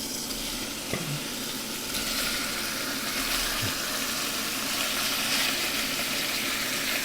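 Chicken pieces sizzling in a hot sauté pan, a steady hiss that builds over the first couple of seconds, with a couple of light knocks.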